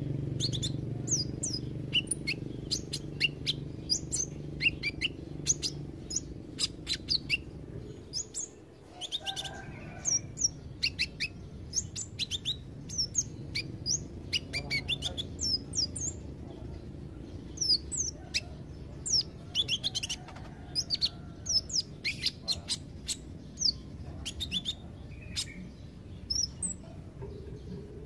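Kolibri ninja (sunbird) singing: a rapid, irregular run of thin, high chirps, each sweeping downward in pitch. A low steady hum runs underneath for the first several seconds.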